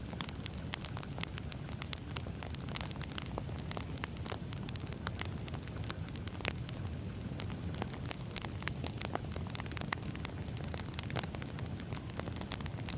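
Wood fire burning, with a steady low rumble and frequent sharp, irregular crackles and pops of burning logs.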